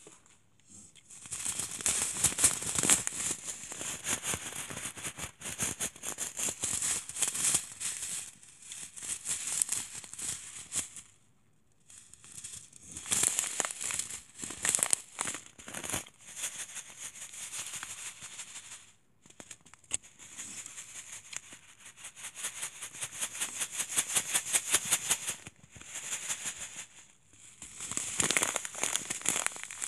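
Rapid, close-up rattling and crackling in bursts of several seconds, with short pauses between them.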